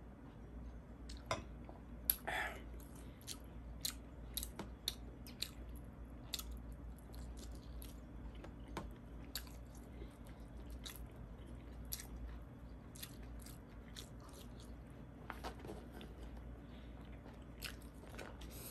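A person chewing and biting food, with many short mouth clicks at an irregular pace.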